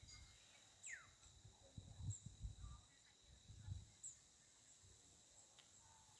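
Faint outdoor ambience with a few scattered bird chirps, one of them a falling call about a second in, over a steady high thin tone. Soft low rumbles, like wind on the microphone, come a few times in the first four seconds.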